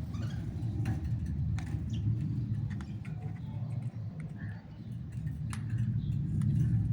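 Faint, scattered parrot chirps and small clicks over a steady low rumble.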